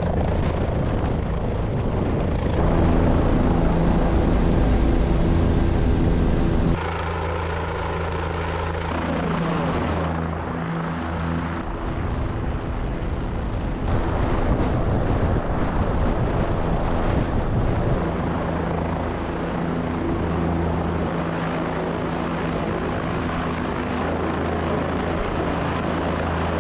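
Helicopter running, a steady drone of turbine and rotor whose pitch and loudness shift abruptly several times.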